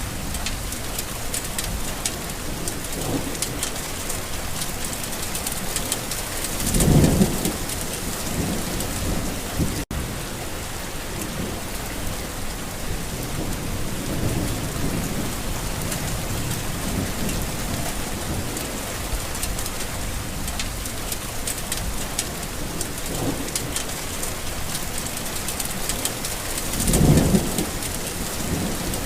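Steady heavy rain falling with thunder rumbling. Two louder rolls of thunder swell up, one about seven seconds in and one near the end. There is a split-second dropout about ten seconds in.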